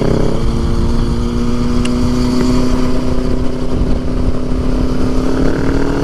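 Motorcycle engine pulling steadily in a high gear, its pitch rising slowly as the bike gains speed, under heavy wind rush on the rider's microphone.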